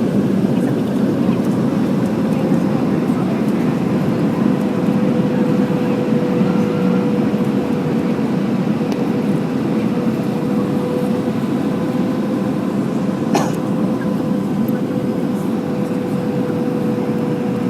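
Steady cabin noise of an Airbus A319 in flight, the rush of air and engines heard from inside the cabin, with a steady hum held throughout. A single short click comes about thirteen seconds in.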